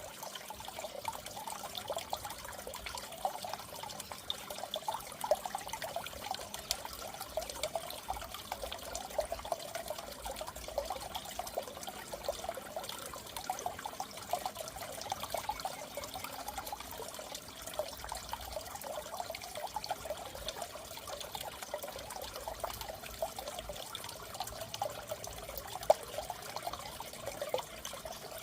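Aquarium water trickling and bubbling steadily, with many small quick bubble pops.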